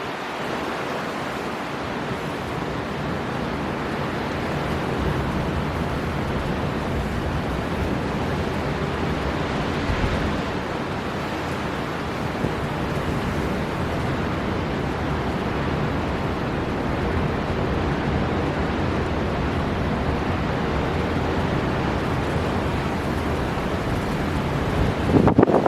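Storm wind blowing hard over surf: a steady rush of wind and waves, with a brief surge about ten seconds in and a louder, choppy burst of wind near the end.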